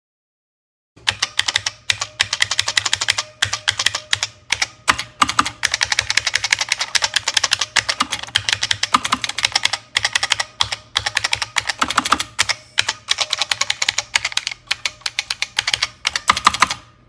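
Fast continuous typing on a vintage computer keyboard: a rapid stream of key clicks and clacks, with a few short pauses, starting about a second in.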